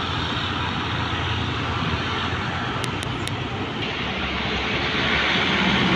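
Road traffic going by: a vehicle engine running steadily with tyre noise, growing louder near the end as a vehicle approaches.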